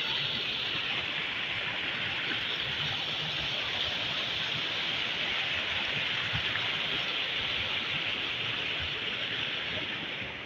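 Heavy rain falling in a steady, even hiss that eases a little near the end.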